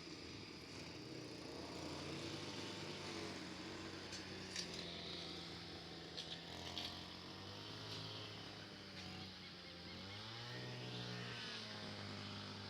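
An engine running steadily, its pitch dipping and rising again about ten seconds in, with a few short clicks in the middle.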